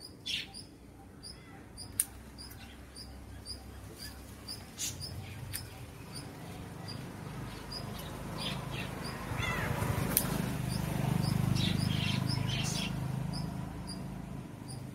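A small bird repeating a short high chirp about two to three times a second, with a few sharp snips of scissors cutting betel-leaf stems and leaves rustling. A low rumble swells for a few seconds after the middle.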